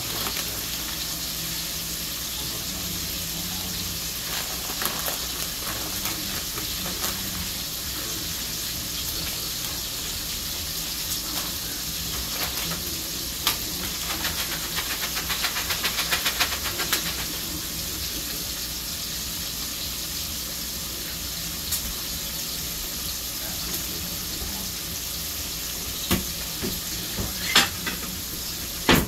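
Meat frying in hot oil, a steady sizzle, with a spell of faster crackling about halfway through. A few sharp clicks come near the end.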